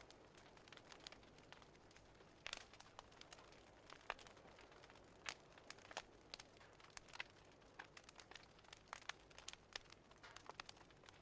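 Faint crackling of a wood fire: scattered sharp pops and snaps at irregular intervals, a few louder than the rest.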